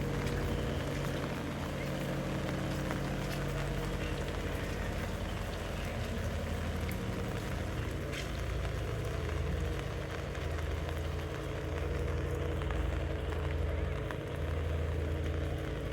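Steady rain falling, with a low rumble and a steady hum underneath.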